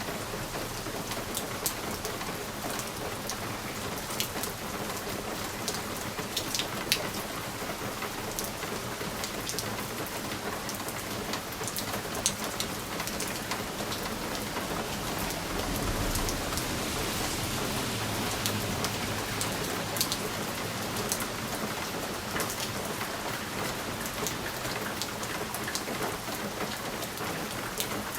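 Steady rain pattering on a window pane, with scattered sharp taps of single drops hitting the glass. About halfway through, a low rumble of distant thunder swells and fades.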